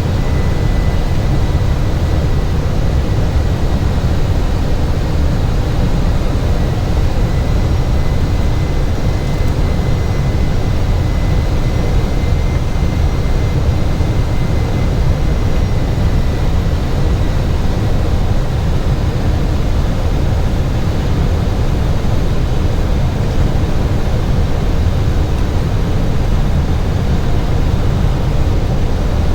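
Steady cockpit noise of an airliner on final approach with gear down and full flaps: an even rumble of airflow and engines, with a faint thin steady tone above it.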